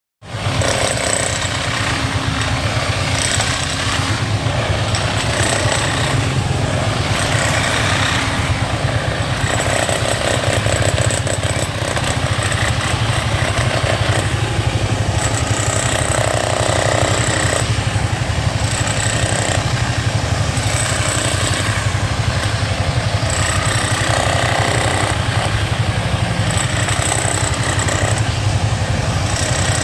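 Engine-driven road-repair machinery running steadily, with a fast, even pulsing.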